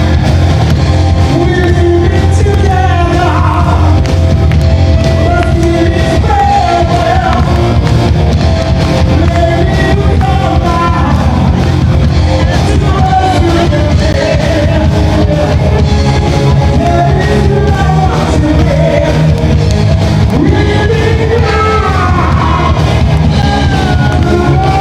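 Rock band playing live, loud: a singer's voice over electric guitar, bass and drums.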